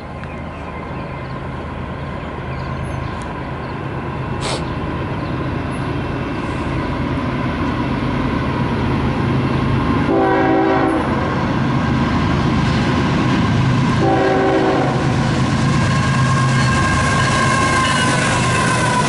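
Union Pacific diesel freight locomotives approaching and passing at speed, their engine drone growing steadily louder. The horn sounds two blasts of about a second each, about four seconds apart. The rumble of locomotives and wheels on the rails fills the last few seconds as they go by.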